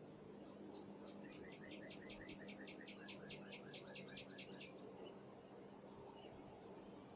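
A songbird singing one faint trill of about five two-part notes a second, lasting about three and a half seconds, over a low steady background hum.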